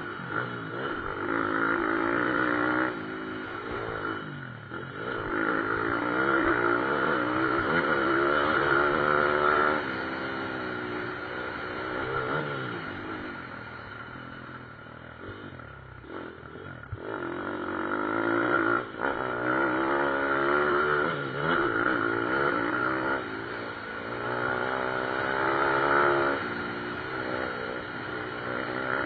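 Pit bike motorcycle engines racing past, revving up and backing off over and over, the engine note swelling and fading as bikes come near and move away.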